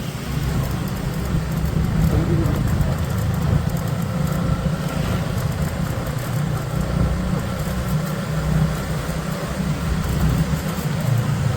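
Motorcycle on the move: a steady low rumble of engine and road noise while riding.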